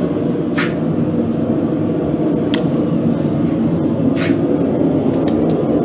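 A forge running with a steady low noise, with four or five short, sharp clicks spread through it.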